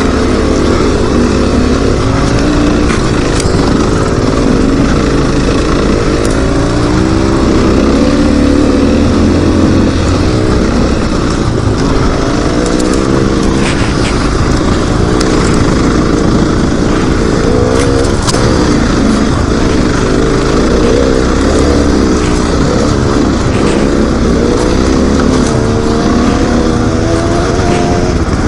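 Dirt bike engine running on a trail ride, its pitch rising and falling continually as the rider works the throttle and gears, over a steady rush of wind noise with a few sharp ticks.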